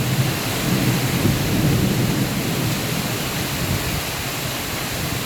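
Heavy rain pouring steadily, with a low rumble of thunder that rolls through the first couple of seconds and then fades.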